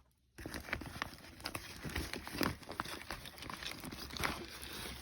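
Rustling and crinkling of firework packaging being handled, a steady stream of small crackly clicks that starts about half a second in.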